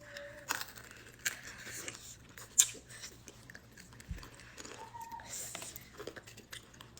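Biting into and chewing a chamoy-coated pickle at close range: a run of wet crunches and short clicks, the loudest crunch about two and a half seconds in.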